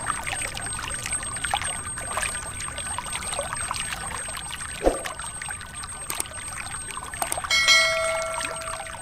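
Water pouring and trickling from a DIY mini hand pump, with many small splashes. There is a knock about five seconds in, and near the end a brief metallic ring that fades away.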